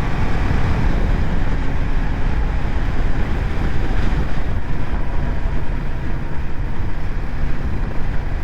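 Steady wind rush on the microphone of a moving motorcycle, a BMW G 310 GS, with its single-cylinder engine running steadily beneath.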